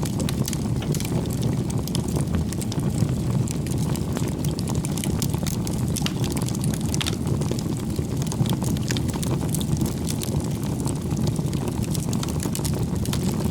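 Wood campfire burning: a steady low rush of flame with frequent small crackles and pops from the burning logs.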